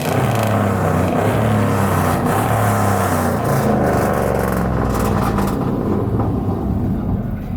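A loud-exhaust V8 truck engine, likely a GM 5.3-litre, is revved hard and held high, then eases off after about five seconds.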